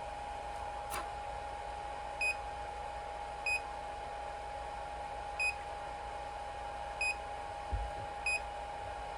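A 3D printer's control panel beeping five times, short high beeps a second or two apart, over a steady high hum. A single click about a second in and a low thump near the end.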